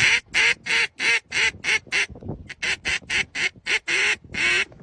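A duck quacking in a rapid run of short calls, about three to four a second, with a brief pause about two seconds in.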